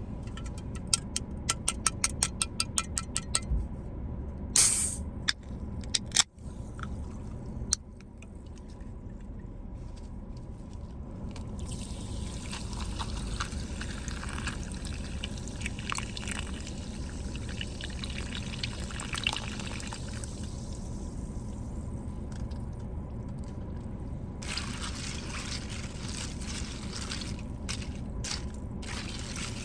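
Sparkling water being opened and poured over ice into a cup, trickling and fizzing. It opens with a quick run of clicks and a short loud burst about four seconds in.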